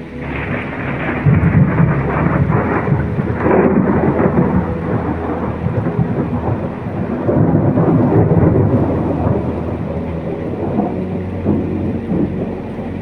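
Thunder rumbling over steady rain, swelling about a second in and again later, then fading.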